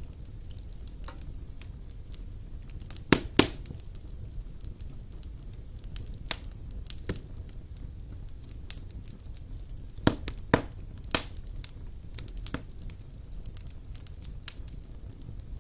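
Wood fire burning in a fireplace: a low steady rumble with scattered sharp crackles and pops, the loudest a pair about three seconds in and a cluster around ten to eleven seconds in.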